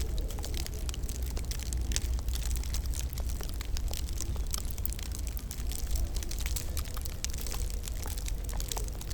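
Wood fire crackling in a fireplace: many irregular small pops and snaps over a steady low rumble.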